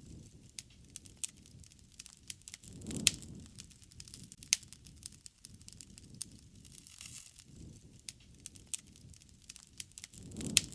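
Wood fire crackling, with many scattered sharp pops and snaps over a low rushing sound that swells twice, about three seconds in and again near the end.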